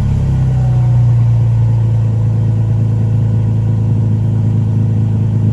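2016 Toyota Tacoma's 3.5-litre V6 idling steadily through a custom exhaust with a Magnaflow muffler and a Vibrant resonator, a deep even drone just after being revved, early in its warm-up from a cold start.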